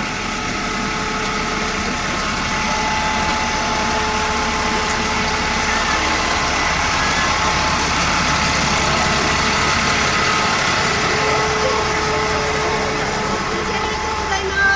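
A vehicle engine running steadily under a loud, even rushing noise that builds slightly over the first few seconds.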